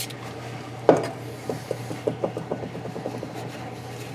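A single knock about a second in, then a quick run of short rubbing strokes: parts of an engine being scrubbed clean with solvent.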